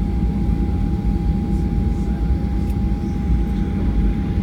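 Cabin noise of a Boeing 737-800 taxiing on its CFM56 engines at idle: a steady low rumble with a thin, constant tone above it.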